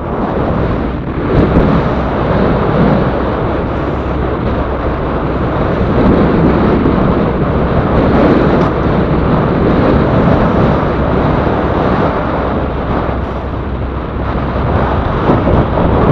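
Strong wind buffeting the microphone on a small boat in rough sea, a loud steady rush that swells and eases a little.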